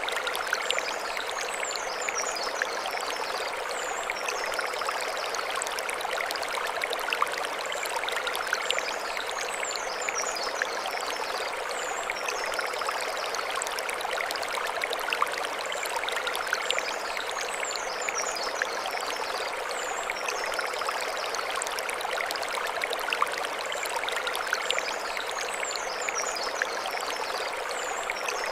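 Mountain stream flowing over stones: a steady rush of water with fine splashing. High chirping calls recur every few seconds above the water.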